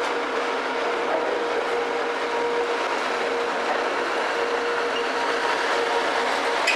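Network Rail C2103 rail grinding train passing close by, its diesel engines and wheels running steadily, with a faint tone that fades out about three seconds in and a sharp click near the end.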